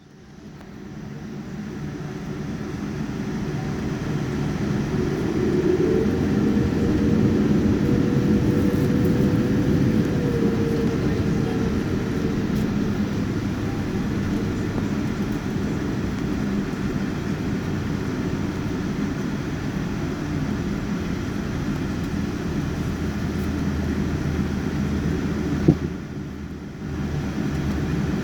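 Cabin noise of a Boeing 787-9's Rolls-Royce Trent 1000 engines spooling up to takeoff thrust, heard from a rear economy seat. It builds to a loud steady rumble with a whine that rises and then fades. About 26 s in comes a sharp click and a brief dip before the noise returns.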